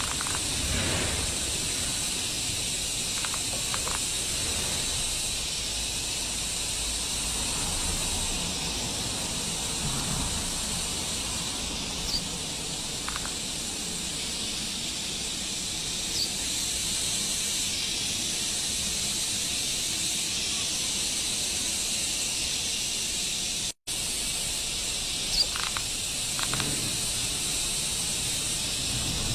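Steady high-pitched hiss of outdoor ambience, with a few brief, faint chirps scattered through it. The sound cuts out for an instant about three-quarters of the way through.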